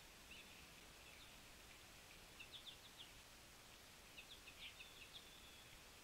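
Faint, short bird chips and call notes over a quiet steady hiss, coming in two loose clusters about two and four seconds in.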